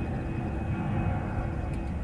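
Harley-Davidson Forty-Eight's 1200 cc V-twin running through a Rinehart Racing 3-inch slip-on exhaust with a Super Quiet baffle: a steady, deep exhaust rumble.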